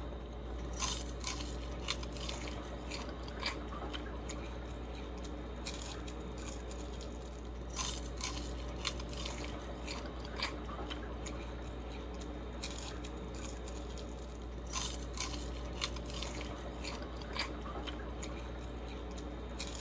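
Someone chewing crispy double-fried Korean fried chicken wings, with irregular sharp crunches of the crust over a steady low hum.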